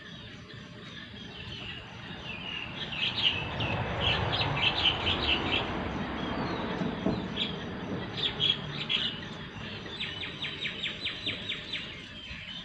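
Small birds chirping in short repeated notes, with a quick run of chirps near the end. A low rushing noise swells up and fades away in the middle.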